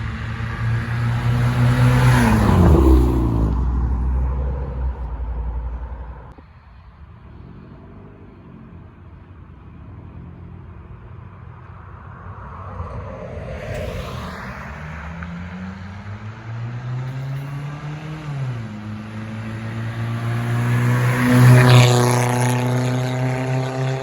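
Honda Civic with its muffler and resonator cut off, the straight-piped exhaust running under load. The engine pitch falls and quiets at first, then climbs, drops suddenly as a gear is shifted, and climbs again to its loudest.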